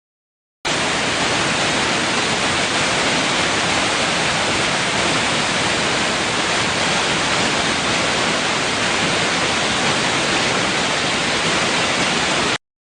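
A steady, even rushing hiss with no birdsong or other tones in it. It starts abruptly just under a second in and cuts off abruptly near the end.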